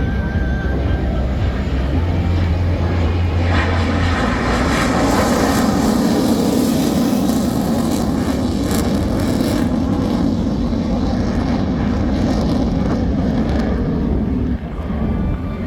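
Jet noise from a Black Eagles T-50B jet passing: a rushing sound that swells about three and a half seconds in, holds loud, then drops away sharply near the end.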